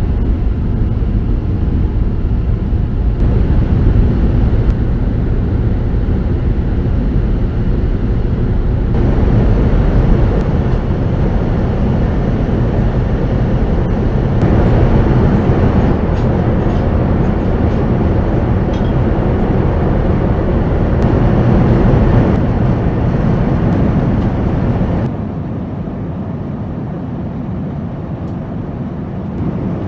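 Steady roar of an Airbus A380 heard inside the cabin: engine and airflow noise, heaviest in the low end. It comes in several cut-together stretches and drops to a quieter level about 25 seconds in.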